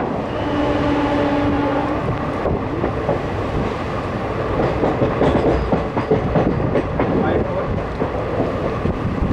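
Passenger train coach running down the line, with wheel clicks and rattling over the rails that grow busier and louder about five seconds in. A brief steady tone sounds about half a second in and lasts about a second and a half.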